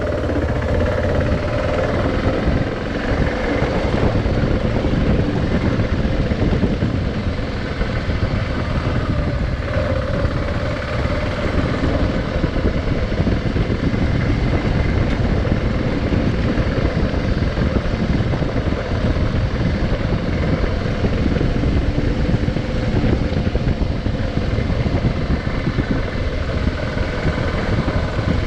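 Adventure motorcycle engine running steadily under way, with a dense low rumble of wind and road noise over it and the engine's pitch drifting slightly as the throttle changes.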